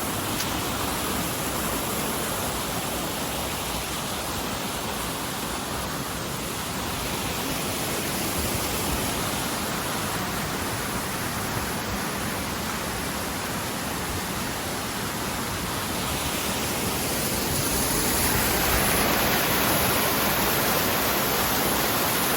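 Creek waterfall rushing steadily, growing a little louder about three-quarters of the way through.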